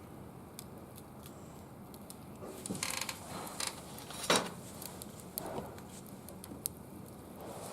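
Wood fire burning in a barbecue grill, crackling with scattered sharp pops. About three seconds in there is a louder rustle, and just after four seconds a single loud sharp knock.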